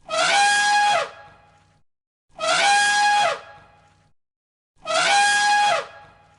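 An animal call repeated three times, each a high, held cry about a second long that rises at the start and drops away at the end, the three calls alike and coming about every two and a half seconds.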